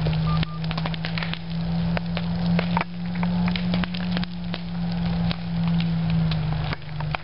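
Wildfire burning with dense, irregular crackling and popping, over a steady low drone.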